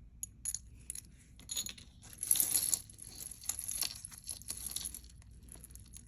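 Small metal costume jewelry pieces clinking and rustling as they are picked through by hand: a run of light irregular clicks, with a louder patch of rustling about two and a half seconds in.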